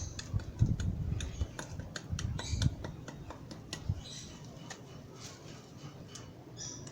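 Small cast-cement tubes clicking and knocking against each other as they are stacked and set in fresh cement, busiest in the first three seconds and thinning out after that.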